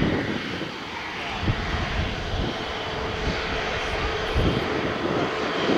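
Jet airliner engines running steadily at low power, most likely the Airbus A350-941's Rolls-Royce Trent XWB engines as it taxis: a steady hum with a faint held tone and uneven low rumbling.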